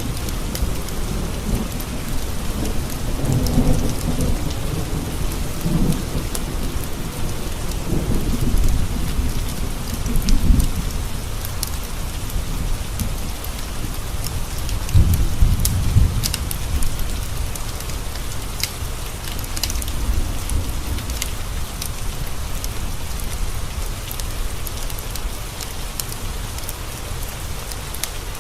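Steady rain falling on a surface, with thunder rumbling three times: around three seconds in, again at about eight to ten seconds, and loudest at about fifteen seconds.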